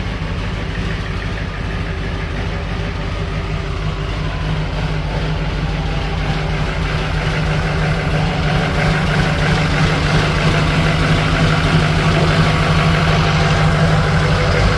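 Duramax diesel engine idling steadily just after its first start, a cold start that needed the glow plugs cycled twice; the sound grows gradually louder.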